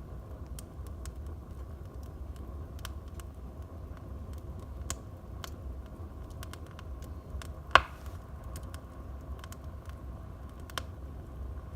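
Wood fire in a fireplace crackling over a low steady rumble of the flames, with scattered small clicks and one loud sharp pop about eight seconds in.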